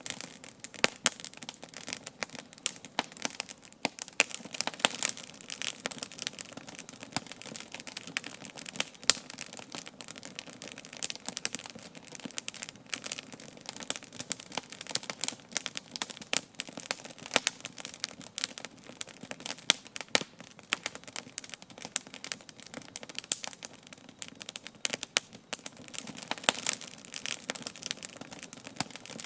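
Wood campfire burning, crackling and popping steadily with many small irregular snaps over a low hiss of the flames.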